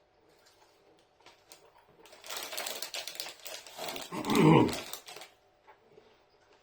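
Crisp crunching of a crispy-filled white chocolate being chewed close to the microphone, in a dense crackly run of a few seconds. About halfway through comes a closed-mouth "mmm" of approval.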